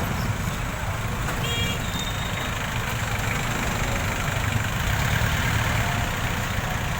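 Motorcycle engine running steadily while riding, with wind and road rushing over it.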